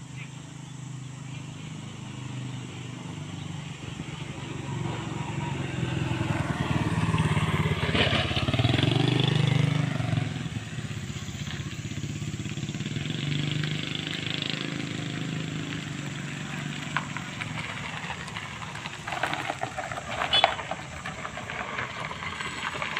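Motorcycle engine running, growing louder to a peak about eight to ten seconds in and then easing off.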